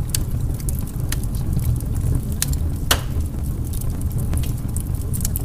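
Steady low rumble with scattered sharp crackles, one stronger about three seconds in: a crackling masking track of the kind laid over a subliminal's hidden affirmations.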